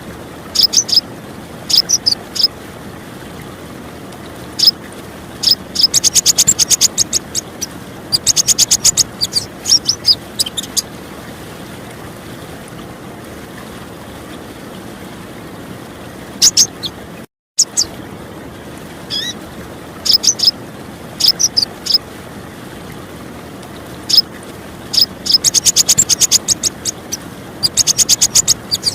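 Female purple-throated sunbird giving high, short chirps and fast rattling trills in groups, over a steady sound of running water. The sound cuts out briefly about halfway through, then the same sequence repeats.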